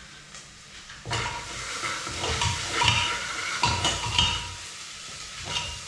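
Spoon stirring and scraping onion and spice paste frying in a pan. There is a sizzle and clinks of the spoon against the pan, starting about a second in.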